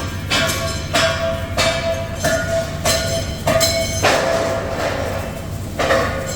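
A steel part being struck again and again, about one or two strikes a second, each leaving a ringing tone of the same pitch, over a steady low machine hum. A hissing burst sounds about four seconds in.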